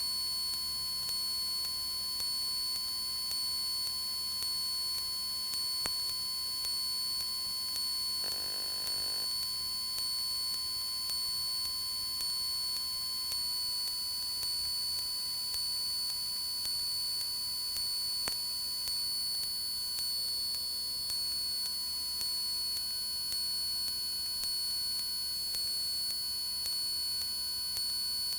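Steady electrical whine and hum in a Cessna 172's cockpit intercom audio in flight: several high, unchanging tones over a low drone. A short burst comes about eight seconds in.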